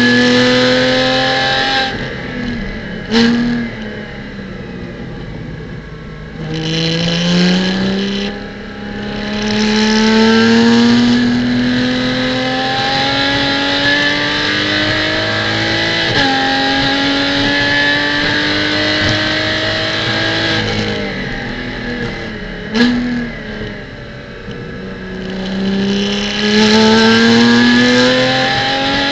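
Porsche Cayman GT4 Clubsport race car's flat-six engine heard from inside the cabin, accelerating hard with its pitch climbing, shifting up once about halfway through. Twice the engine lifts off for a corner with a sharp downshift blip, then pulls again, under a steady hiss of road noise.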